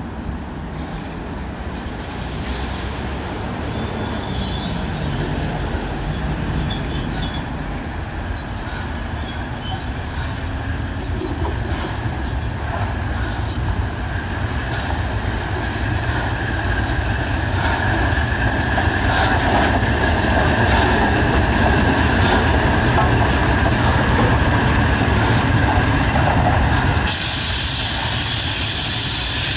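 Steam-hauled train running on the line, growing louder, with regular sharp clicks that come closer together as it gathers speed. Near the end a loud hiss of steam breaks in suddenly.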